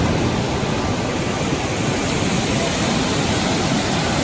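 Waterfall running in heavy flow: a loud, steady rush of falling water.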